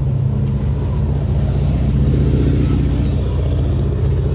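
Low, steady engine rumble of a road vehicle driving close by, slowly getting louder.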